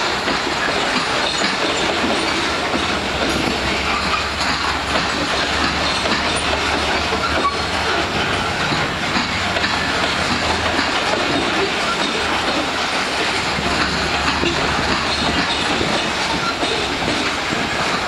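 Long freight train of gondola cars rolling past, its steel wheels running on the rails with a steady, even noise.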